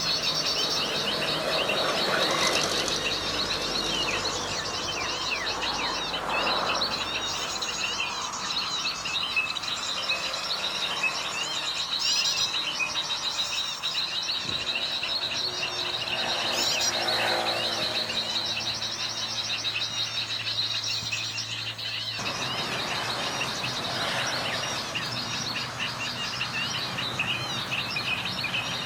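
Small birds chirping in a dense, continuous chorus of short, high calls, with a few louder sweeping calls standing out now and then.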